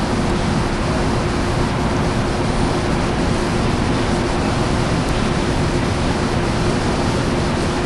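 Amtrak passenger train's diesel locomotive running steadily while stopped at the platform, a constant loud rumble with a steady hum.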